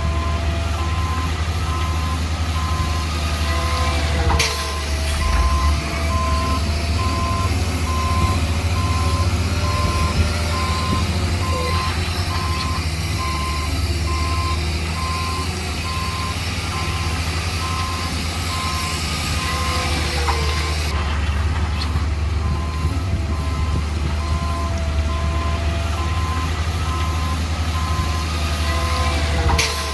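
Heavy diesel construction machine running with its reversing alarm beeping in a steady, evenly repeated pattern over a low engine rumble.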